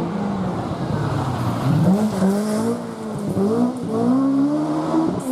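Rally car engine under hard throttle, the revs climbing and dropping several times as the driver shifts gear and lifts off.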